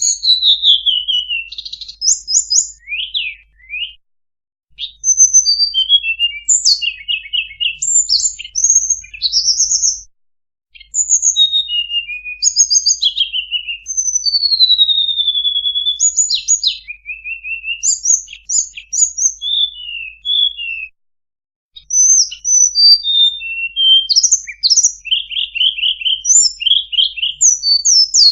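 Recorded song of a tledekan, played as a bird-trapping lure call. It is a varied run of high whistles, fast trills and downslurred notes, with short pauses about four, ten and twenty-one seconds in.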